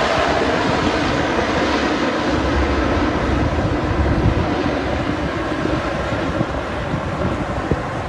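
Engines of a Super Scooper amphibious firefighting plane running loud as it passes close by, with a heavy low rumble, easing slightly toward the end.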